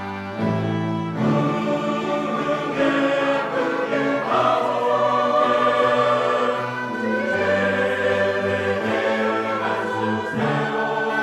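Church choir singing a slow anthem in parts, with sustained chords over steady low accompanying notes.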